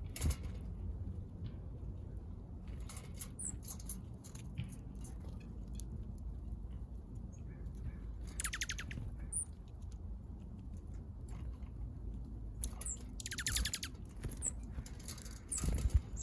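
Small backyard birds calling: a few short, high chips and two brief chattering runs of rapid notes, with scattered light taps, over a low steady rumble.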